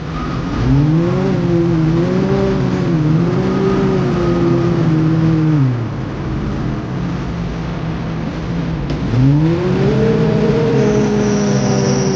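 Diesel engine of a heavy earthmoving machine revving up under load, easing back to a lower speed about six seconds in, then revving up again and holding. A high steady whine joins near the end.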